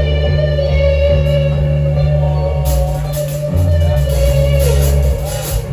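Amplified live band playing a sound-check passage: a long held lead note, most likely electric guitar, bending up into pitch and down again near the end over sustained bass notes. A bright high hiss joins about halfway through, and the music drops away near the end.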